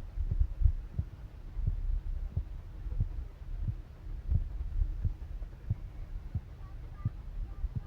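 Low rumble inside the cabin of a Boeing 787-10 rolling on the ground, with irregular low thumps about one or two a second, typical of the wheels going over pavement joints.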